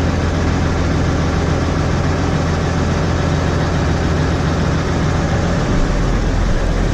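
New Holland 6080 tractor's diesel engine idling steadily; near the end its low note gets stronger.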